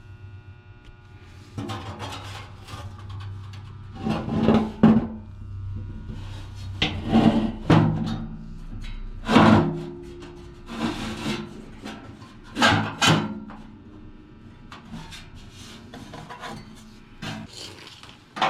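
Irregular scraping and rubbing strokes of the furnace blower's parts being handled and worked by hand, some of them loud, over faint background music.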